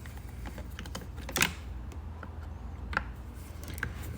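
Scattered clicks and clacks of flathead screwdrivers working parts off a Stihl MS290 chainsaw during teardown. The sharpest comes a little over a second in, with others near three seconds and near the end.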